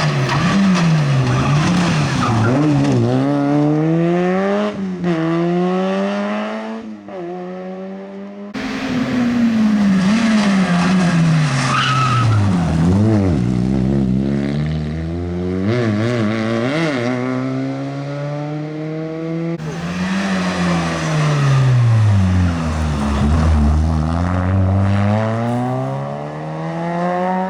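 Rally cars driven hard on a stage, each engine's note dipping and climbing again and again through gear changes and corners, with tyre squeal. The sound cuts abruptly twice as one car's run gives way to the next.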